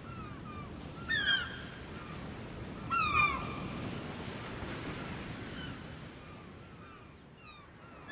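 Short downward-gliding bird calls, two louder ones about a second and three seconds in, with fainter chirps between, over steady background noise.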